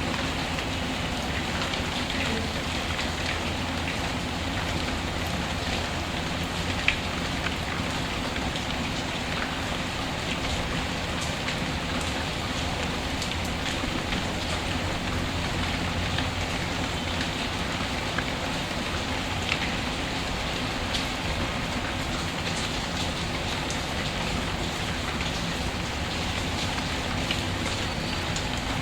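Steady rain falling, with a few sharp crackles and pops from a wood fire.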